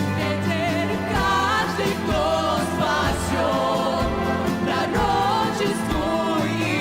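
Christian worship song: voices singing a melody with vibrato over steady instrumental backing.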